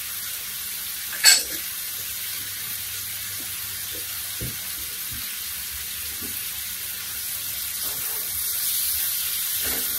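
Beef cubes and onions sizzling as they brown in a cast iron skillet: a steady hiss that grows a little louder in the last few seconds. A sharp clink comes about a second in, and a wooden spatula knocks lightly against the pan now and then.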